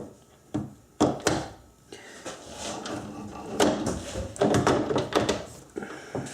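Metal clunks of a South Bend lathe's feed controls being shifted: four sharp knocks in the first second or so, then a rougher, uneven clatter of handling.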